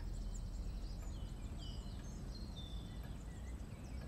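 Faint songbird chirps: scattered short, quick notes over a low, steady room hum.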